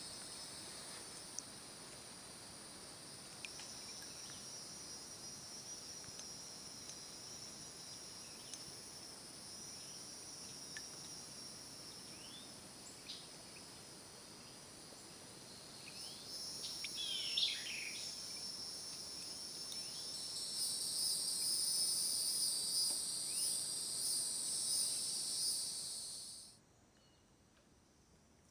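Steady high-pitched chorus of insects, with a few short bird chirps scattered through the middle. The insect buzzing grows louder over the second half, then cuts off suddenly near the end.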